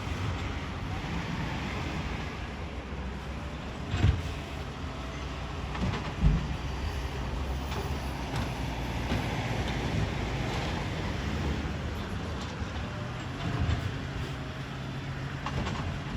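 Garbage truck engine running steadily, with a few short thumps, the sharpest about 4 and 6 seconds in.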